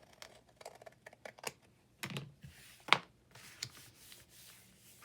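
Irregular light clicks and taps of paper and craft tools being handled on a work table, with one sharper knock about three seconds in and a short rustle of paper after it.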